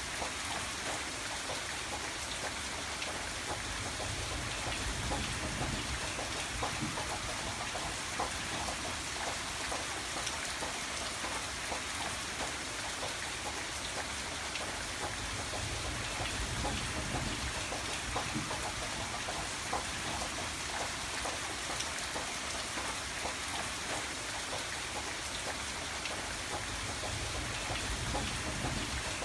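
Steady rain falling, a constant hiss with dense small patters of drops on a surface.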